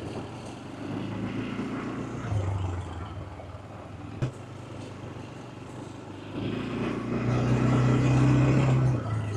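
ATV engine running under throttle, picking up in surges, with the longest and loudest from about six and a half seconds in to near the end. A single sharp knock about four seconds in.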